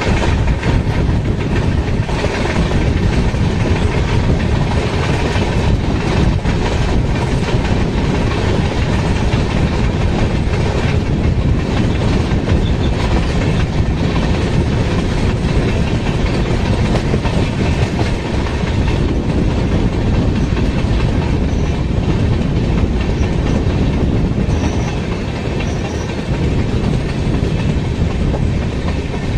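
Indian Railways express train running at high speed, heard from the open doorway of a coach: a steady, loud rush of wheels on the rails with the clickety-clack of the track throughout.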